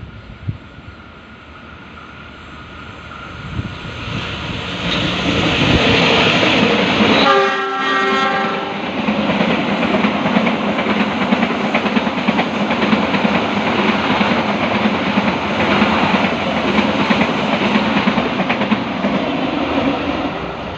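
The KA Taksaka passenger train approaching and passing close by, growing louder over the first few seconds. About seven seconds in its locomotive sounds one horn blast of about a second and a half. The rolling noise of the carriages and the clickety-clack of wheels over rail joints carries on, then begins to fade near the end.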